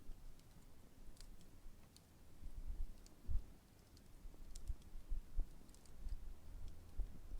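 Large wood campfire burning: irregular sharp crackles and pops of the burning wood over a low rumble.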